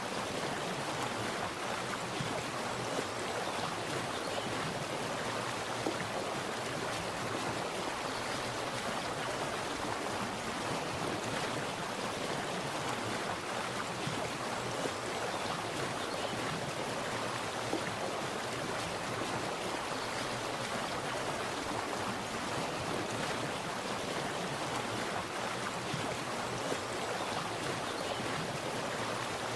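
Water splashing and running steadily, a constant rushing with small splashes.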